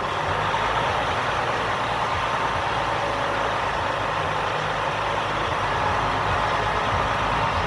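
A truck's engine idling steadily.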